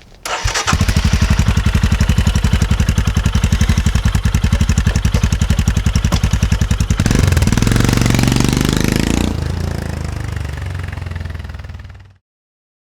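Royal Enfield Himalayan's single-cylinder engine through a PoweRage free-flowing slip-on exhaust with the dB killer removed. It starts up and settles into an even thumping idle, is revved for about two seconds near the middle, then drops back, and the sound cuts off suddenly near the end.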